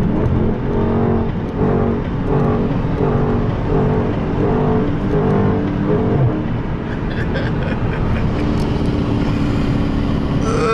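Dodge Charger Scat Pack's 392 HEMI V8 running on the road, with loud, steady road and wind noise.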